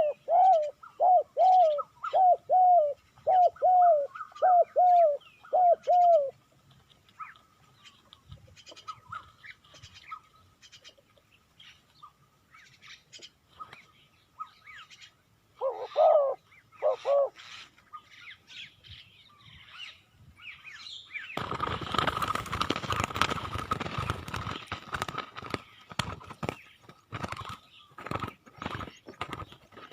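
Spotted dove cooing: a quick run of about ten short, repeated coo notes over the first six seconds, and two more about sixteen seconds in. Then a loud rustling burst lasts several seconds, followed by scattered ticks.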